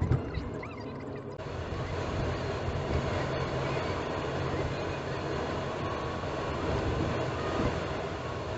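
Steady driving noise of a car on the road, heard inside the cabin: a low rumble with tyre and wind hiss. The noise suddenly grows fuller about a second and a half in, then holds steady.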